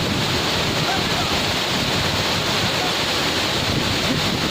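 Kakochang Waterfall's steady rush of falling water, an even, unbroken wash of noise.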